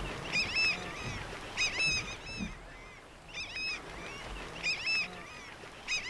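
Wetland bird calling: short phrases of two or three nasal, honking notes, repeated about four times over a faint steady hiss.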